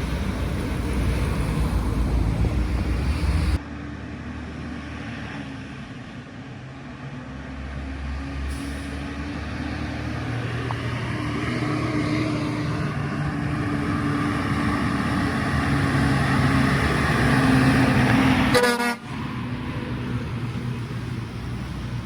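Loaded heavy trucks driving past, their diesel engines rumbling and growing louder as one approaches, with a vehicle horn. The sound changes abruptly twice, about three and a half seconds in and again near 19 seconds.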